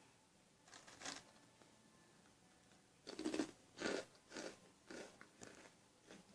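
Hot Cheetos being bitten and chewed close to the microphone. There is one crunch about a second in, then a run of chewing crunches about two a second through the second half.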